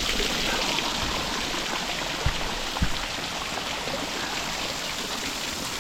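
Small waterfall splashing steadily over rock, an even rush of water. Two soft low thumps come about two and three seconds in.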